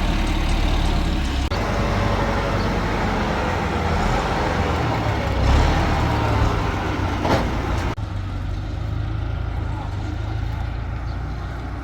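A heavy engine on a concrete-pouring site runs steadily, with a constant low hum and machinery noise; the sound gets a little quieter about eight seconds in.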